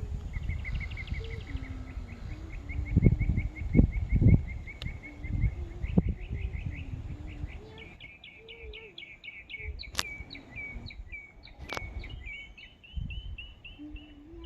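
A bird calling in a rapid run of short chirps, about five a second; about halfway through the notes shift higher and change pattern. Wind gusts rumble on the microphone in the first half, and two sharp clicks come near the end.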